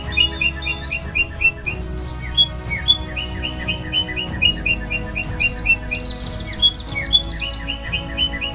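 A bird chirping in quick runs of short, sharp notes, several a second, each run lasting one to two seconds with single chirps between runs. Soft background music with a steady low drone plays underneath.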